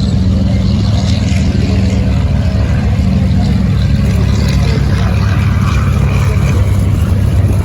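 Boeing C-17 Globemaster III's four turbofan engines running as the jet taxis under its own power: a loud, steady low rumble.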